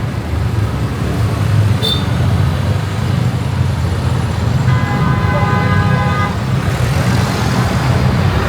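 Motorcycle engine running under way in city traffic, with road and wind noise. A vehicle horn honks for about a second and a half about five seconds in, and a short high beep sounds about two seconds in.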